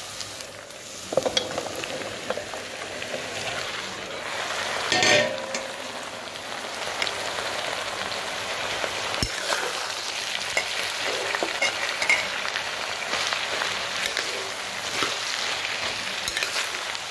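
Onions sizzling in hot oil in a kadai, stirred and scraped with a metal spatula. About five seconds in there is a louder rush of sizzle and clatter as chopped colocasia (taro) stems are tipped into the pan, then the frying and stirring goes on.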